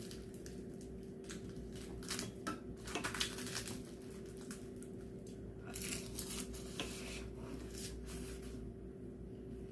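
Close-up eating sounds: chewing and crunching with a few light utensil clicks, busiest a couple of seconds in and again around the middle. A steady low hum runs underneath.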